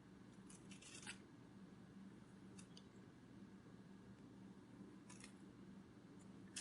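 Near silence: a faint steady low hum, with a few faint short clicks and ticks, a small cluster about a second in and single ones later.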